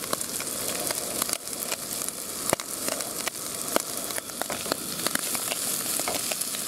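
Squid frying in hot oil with onions and garlic in a pan over high heat: a steady sizzling hiss with frequent sharp crackles and pops.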